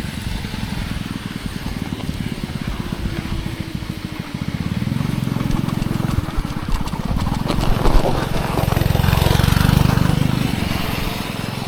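A moped's small engine running as it passes close by, a low rapid pulsing that swells twice, mixed with wind rumble on the microphone.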